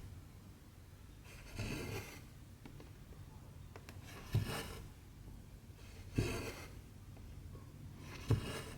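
Needle and cotton thread being drawn through cross-stitch fabric, stitch after stitch. Each stitch gives a soft tap and then a short scratchy swish, about every two seconds, four times.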